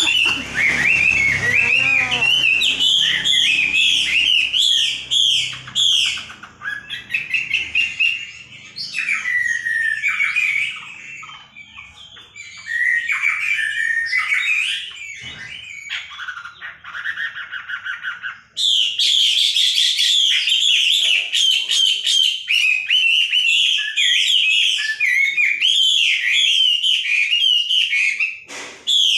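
A caged songbird singing a fast, busy song of rapid chirps and trills. It is loud for the first six seconds and again from about 18 seconds in, with softer, broken phrases between.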